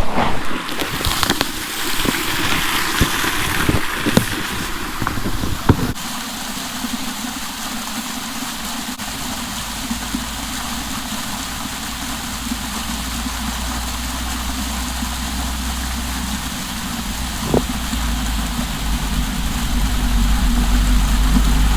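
Water splashing and running for about six seconds, with a few knocks. Then, after a sudden change, an engine runs steadily with a low hum that grows louder near the end.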